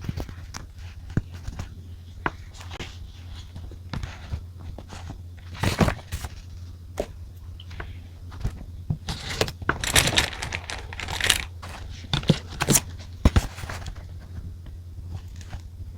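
Paper being handled at a desk: rustling and crinkling with scattered light taps and clicks, loudest in a longer rustle about ten seconds in, over a steady low hum.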